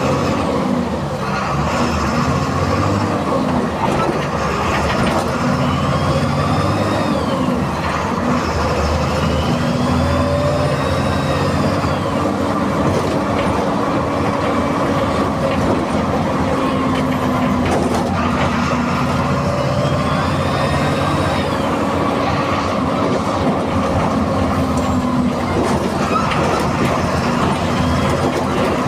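A VW 17-230 EOD bus's MWM 6.12 TCE 7.2-litre turbocharged, intercooled six-cylinder diesel running under way, its pitch rising and falling several times as it revs up and drops back.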